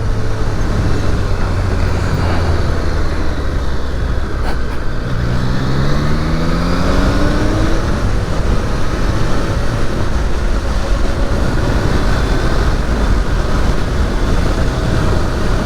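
Triumph Daytona 660's three-cylinder engine running under way, its pitch rising in one pull about five seconds in, over steady wind and road noise.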